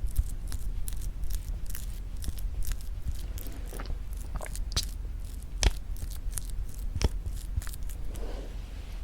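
Close-miked mouth sounds of eating very thick Greek yogurt with honey: a steady run of small sticky clicks and smacks, with a few sharper clicks about five, five and a half, and seven seconds in.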